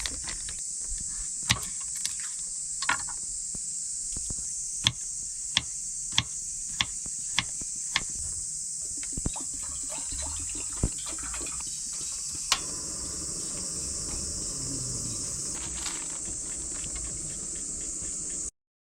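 Steady high-pitched chorus of summer insects, with about a dozen sharp taps or knocks scattered through the first two-thirds; the sound cuts off suddenly just before the end.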